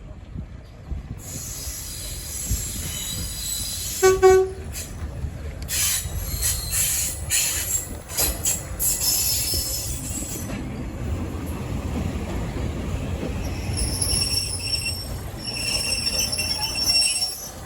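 Passenger train pulling into the station platform: a steady low rumble, a short horn note about four seconds in, wheels clattering over rail joints, then a high-pitched squeal of brakes and wheels near the end as it slows.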